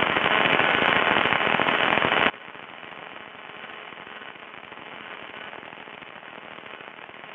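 Aircraft radio crackling badly in the headset audio: loud static crackle for about two seconds, then it drops abruptly to a fainter crackle.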